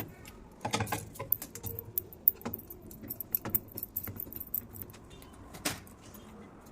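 Irregular metallic clinks and short rattles of small metal parts and tools being handled, in a few clusters, the busiest about a second in.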